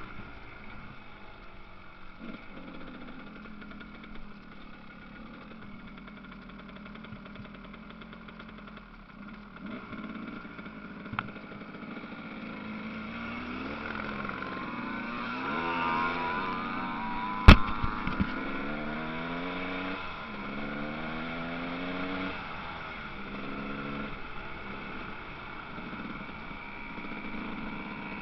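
Motocross motorcycle engines revving as bikes ride the track, pitch repeatedly rising and falling with throttle and gear changes, getting busier about halfway through. One sharp, loud knock about two-thirds of the way in.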